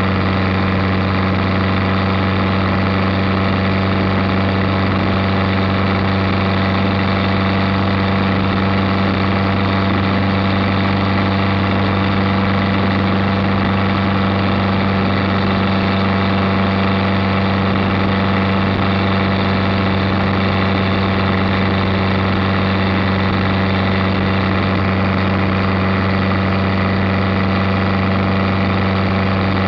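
Chevette 1.6-litre four-cylinder engine in a homebuilt Super 7 roadster running at a steady cruise, holding one even pitch, under a steady hiss of wind and road noise from the open car.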